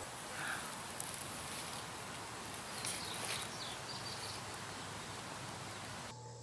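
Outdoor ambience: a steady background hiss with a single click about a second in and faint rustling and chirps around three seconds in. The hiss drops away abruptly near the end.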